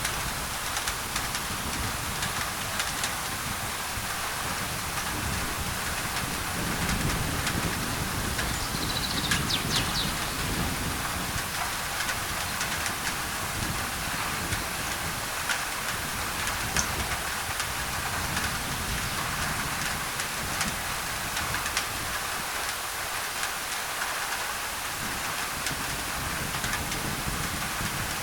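Tropical rain on a thin tin roof: a steady hiss dotted with sharp drop ticks. Under it runs a low thunder rumble that swells between about six and eleven seconds in.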